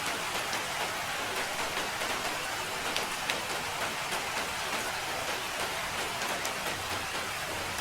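Steady rain falling, a dense even hiss with many small drop ticks pattering on a surface.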